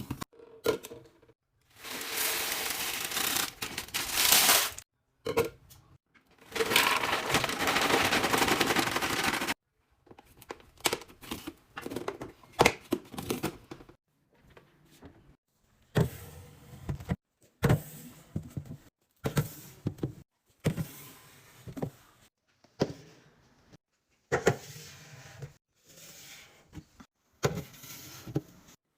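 Food packaging and containers being handled while restocking a fridge: two long stretches of loud, continuous rustling, then a string of short clicks, taps and knocks as items are set down.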